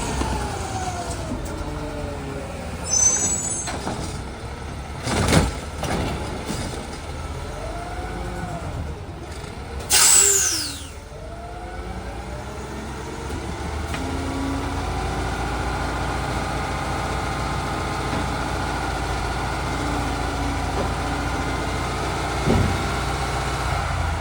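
Recycling garbage truck's engine revving up and down repeatedly while its packer is cycled by hand, with a few clunks. A sharp hiss of air sounds about ten seconds in, after which the engine holds a steady, higher speed.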